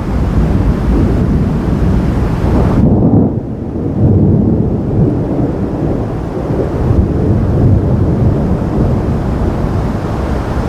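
Thunder rumbling and rolling, with a brief dip about three seconds in before the rumble swells again.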